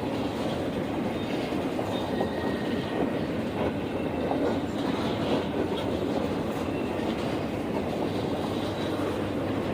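A train rolling past on the rails: a steady rumble of wheels on track.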